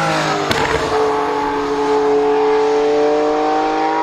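A car engine under hard acceleration. The revs drop with a sharp crack of a gear change about half a second in, then the engine pitch climbs steadily under load.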